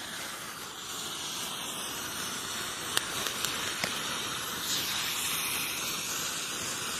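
A car emergency road flare, past its expiry date, burning with a steady hiss, with a few small clicks about three to four seconds in.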